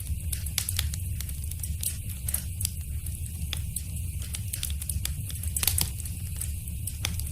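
Fire in a fireplace crackling, with irregular sharp pops and snaps, a quick cluster of them about five and a half seconds in, over a steady low rumble of burning.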